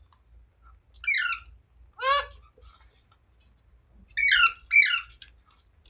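Ringneck parrot calling: four short, loud calls, one about a second in, one at two seconds, and a quick pair near the end.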